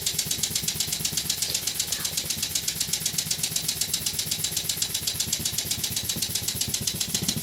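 Homemade model steam engine, built from a scrap air cylinder, running steadily: a rapid, even beat of hissing exhaust puffs over a low throb.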